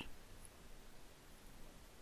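Near silence: faint room tone in a pause between spoken phrases.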